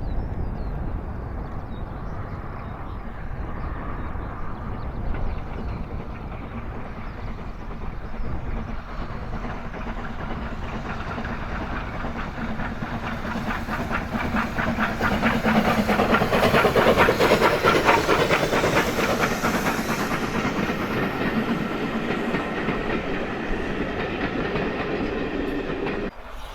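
Steam locomotive and its train passing by, growing louder to a peak about two-thirds of the way through with a quick, even rhythmic beating of exhaust and wheels over rail joints, then fading away.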